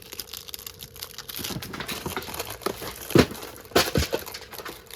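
Plastic craft packaging crinkling and rustling as it is handled, with two louder knocks about three and four seconds in.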